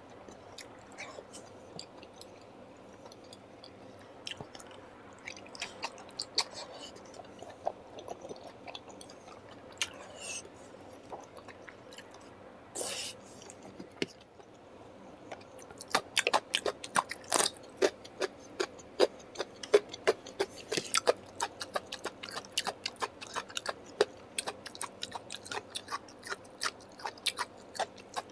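A person eating a curry meal in close-up: chewing, with many sharp wet clicks and smacks that grow denser and louder in the second half. There is one brief noisy burst about halfway through.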